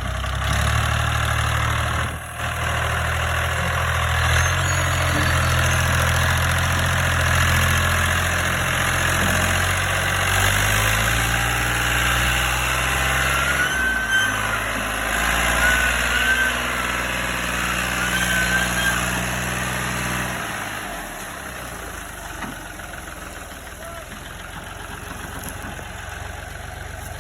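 Tractor engine running steadily, its pitch shifting in a few steps, then falling to a quieter level about twenty seconds in. A few short high warbling whistles come through in the middle.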